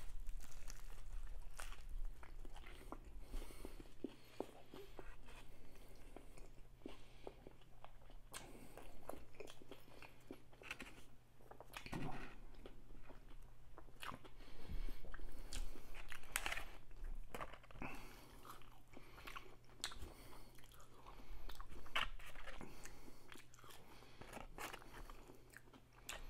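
Biting into and chewing a chicken sandwich topped with onion rings, with crunching and crackling that comes in irregular louder bursts every few seconds.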